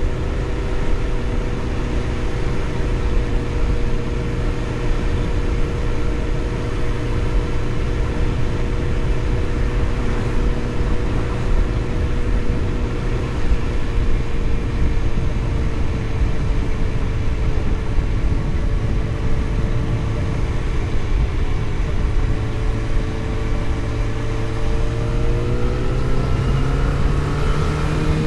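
Vehicle engine running at a steady cruise over continuous road and wind rumble. Its pitch rises over the last few seconds as it accelerates.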